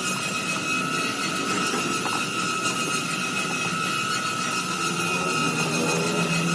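A machine's motor running steadily, a constant whine over an even rushing noise, with a few faint ticks.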